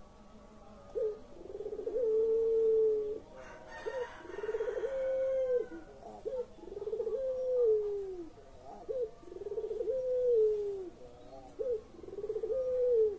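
Puter pelung, a domestic Barbary dove, cooing: five repeated phrases, each a short note followed by a long drawn-out coo that dips at the end.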